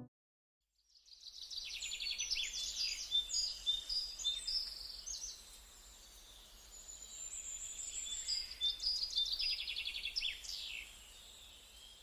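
Birds chirping and trilling with quick, high calls, starting about a second in. They ease off around the middle, pick up again, then thin out near the end.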